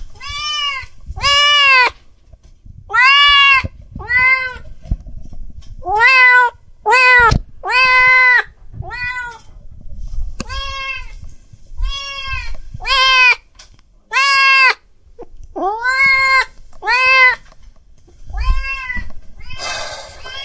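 A cat meowing over and over, short high meows about one a second, each rising and falling in pitch, with a few short pauses.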